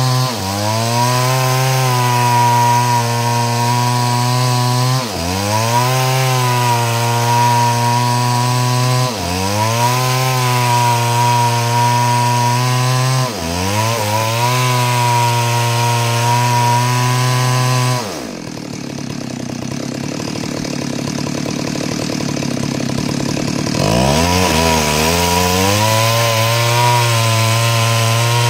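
Stihl two-stroke chainsaw ripping a log lengthwise into planks at full throttle, its engine note sagging under load and climbing back about every four seconds. For about six seconds near the end the steady note gives way to a rougher, quieter noise, then the full-throttle note returns.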